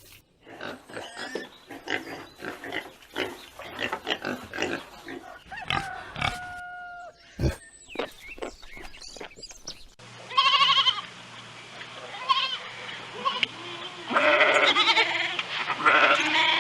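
Pigs grunting rapidly, with a few short squeals. About ten seconds in, after a cut, wavering bleating calls follow.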